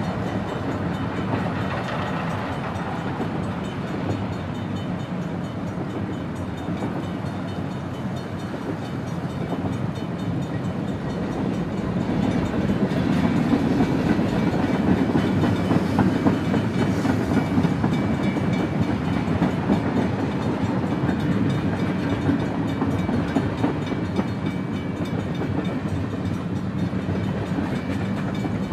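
Freight train of tank cars and covered hoppers rolling past: steel wheels rumbling and clattering on the rails, a continuous sound that grows louder about twelve seconds in.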